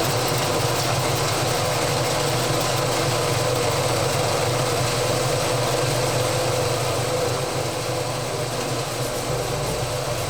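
Heavy-duty circular vibrating sieve running: a steady, loud machine drone with a low hum and a higher steady tone over it.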